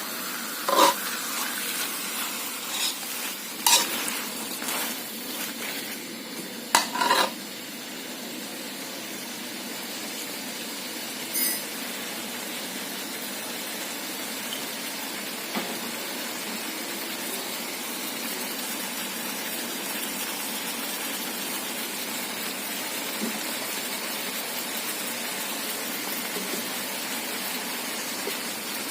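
Seafood stir-frying in southern Thai curry paste, sizzling steadily in a hot pan. A metal spatula strikes and scrapes the pan a few times in the first seven seconds.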